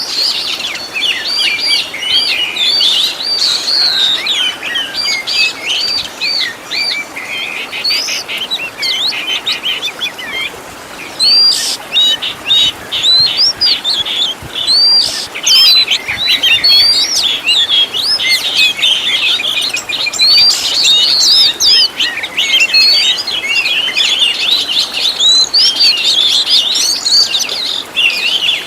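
Oriental magpie-robin (kacer) singing a fast, unbroken stream of varied whistled and chattering phrases, with a brief lull about ten seconds in.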